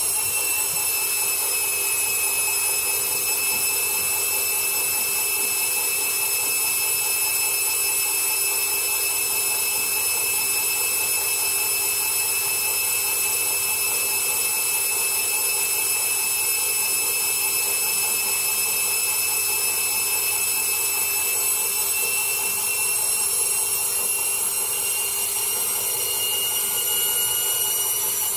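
Candy washing machine spinning at high speed: a steady, high-pitched motor whine that edges slightly higher in pitch in the last few seconds.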